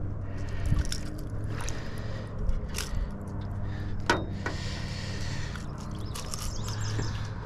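A steady low motor hum with a few sharp clicks and knocks scattered over it, and a brief hiss about four and a half seconds in.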